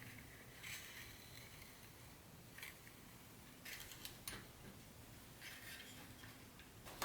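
Faint, intermittent rustling and light clicking of packaging and small parts being handled, in four short bouts with a sharper click at the end.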